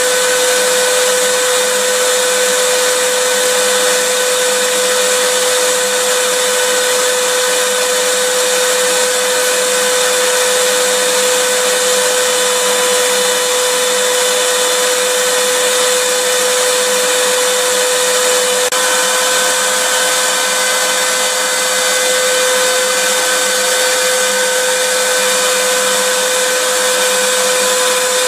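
Vacuum cleaner running steadily: a rush of air with a constant motor whine over it. The tone shifts slightly about two-thirds of the way through.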